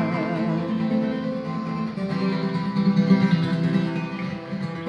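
Acoustic guitar strummed, with chords ringing and a change of chord about two seconds in. A held sung note with vibrato fades out at the very start.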